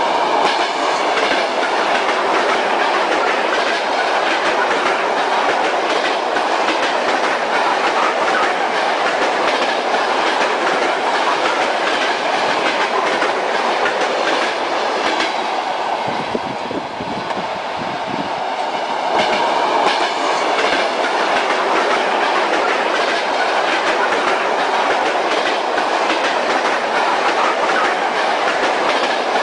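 Train wheels clattering rhythmically over rail joints under a steady running rumble of a moving railway carriage. Partway through, the sound briefly dips and turns deeper before settling back.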